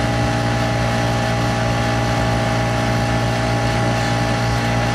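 Lawn mower engine running at a steady speed, a constant even hum with no change in pitch.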